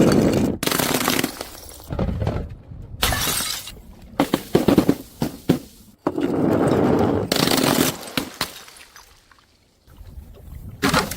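Glass bottles smashing: a series of loud crashes of shattering glass, with smaller crunches and clinks of shards between them.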